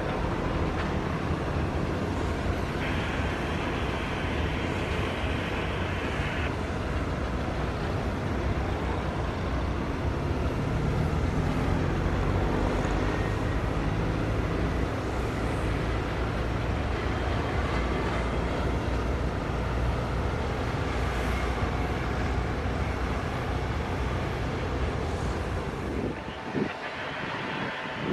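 Jet aircraft engines running, a loud, steady rumbling roar that eases off near the end.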